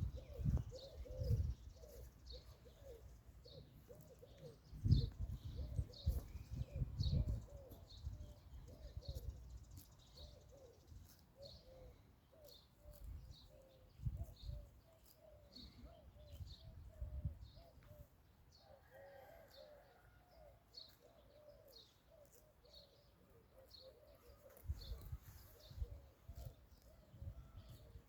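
Pigeons cooing over and over, with small birds chirping high and quick. Irregular low rumbles come and go, heaviest in the first several seconds and again near the end.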